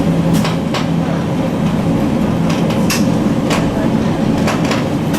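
Echizen Railway train running: a steady low rumble of the car in motion, with the wheels clicking sharply over rail joints at irregular intervals, some clicks in quick pairs.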